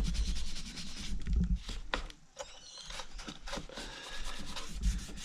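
Rubbing and scraping with scattered small clicks and low knocks, from hands and tools working on the inside of a Technics SL-1200 MK2 turntable during disassembly.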